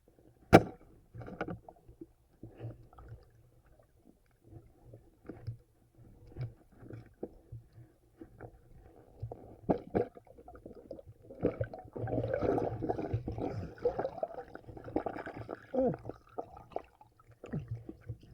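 Water sloshing and gurgling in a river, with scattered knocks and one sharp loud click about half a second in. The sloshing grows denser and busier from about eleven to sixteen seconds in.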